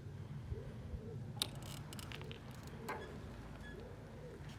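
Faint mechanical clicking and rattling from a mountain bike, a few sharp clicks over a low rumble.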